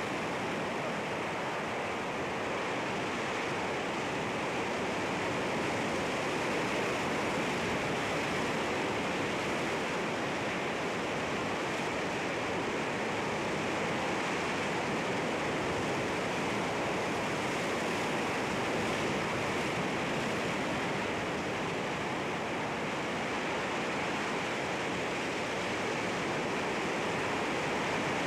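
Sea waves washing against rocks, a steady rushing surf with gentle swells in level.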